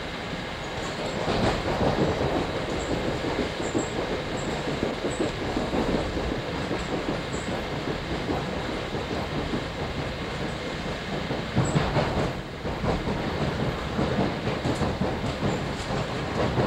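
A New Jersey Transit commuter train running at speed, heard from inside the coach: a steady rumble with wheels clattering rapidly over the rail joints. It grows louder about a second in and clatters more sharply near the twelve-second mark.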